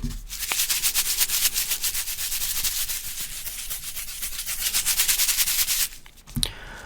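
Fast, rough scratching and rubbing right against the microphone, many strokes a second, that stops about six seconds in, followed by a couple of faint clicks.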